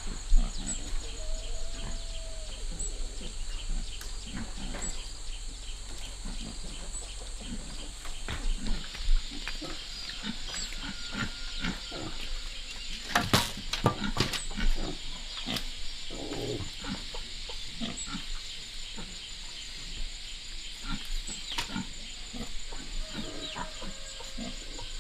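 Pigs grunting, short grunts again and again, with a couple of brief higher-pitched calls and a sharp knock about thirteen seconds in.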